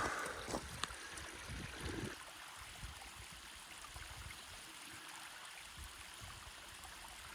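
A small canyon stream of water trickling, a faint steady wash. A few soft low thumps sound in the first two seconds.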